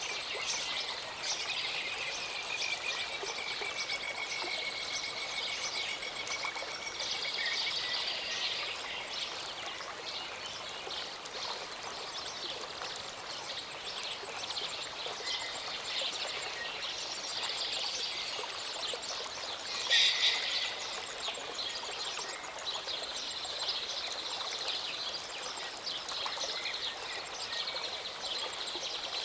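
Small mountain stream running steadily, with several birds chirping and singing over it. One bird holds a long, even note for several seconds near the start, and a louder call stands out about twenty seconds in.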